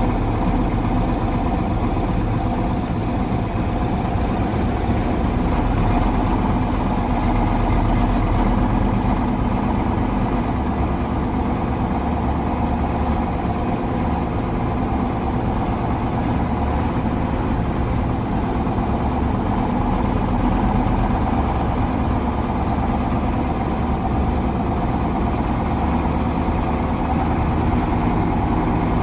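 1985 KAMAZ 4310 6x6 military truck's V8 diesel engine running steadily as the truck is driven.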